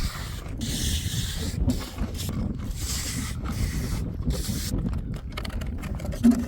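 A run of rasping, scraping strokes, each about half a second to a second long, over a steady low rumble; the strokes stop a little before the end, leaving a few faint clicks.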